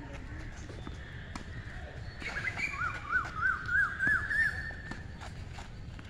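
A bird calling outdoors: a quick series of about six short arched notes, each a little higher than the one before, lasting under two seconds about a third of the way in.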